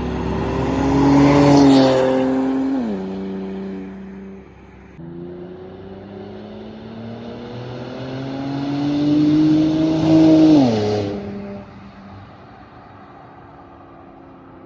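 Infiniti Q60 with muffler and resonator deleted accelerating past twice. Each time the exhaust note rises in pitch and grows loud, then drops sharply as the car goes by, and a quieter steady engine note is left near the end.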